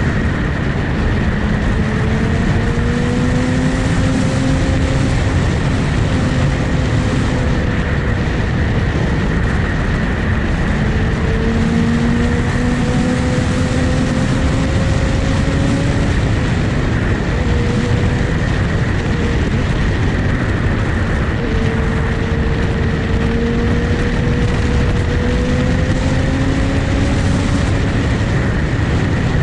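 Motorcycle engine running under way, its pitch climbing slowly and dropping back several times as the bike pulls through the gears, under a loud steady rush of noise.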